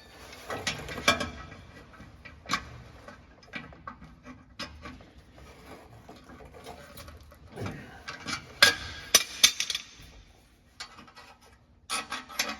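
Steel exhaust clamp and pipe parts scraping, clicking and knocking against each other as the clamp is worked onto the exhaust pipe, with a few sharper metal knocks about nine seconds in.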